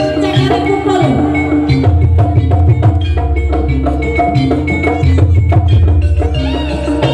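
Loud live jaranan music from a gamelan-style ensemble: metal gong-chime and metallophone notes carry a repeating melody over quick drum strokes and a deep, booming bass.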